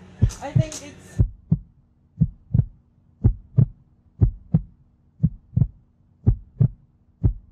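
Heartbeat sound effect: pairs of low thumps, lub-dub, about once a second, eight beats in all, over a faint steady hum.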